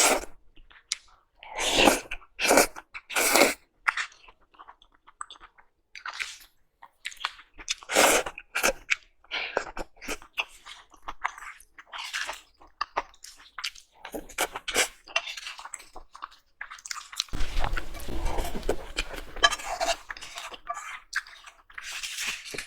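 A person biting and chewing crunchy food, in irregular crunches with short pauses, turning into continuous chewing noise about seventeen seconds in.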